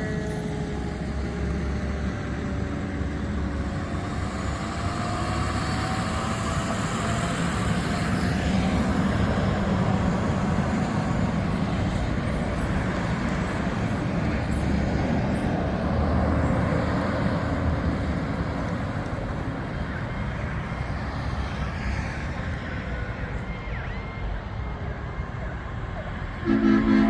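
Fire trucks' diesel engines running as the apparatus drive off, a steady rumble of heavy vehicles. Near the end comes one short, loud horn blast.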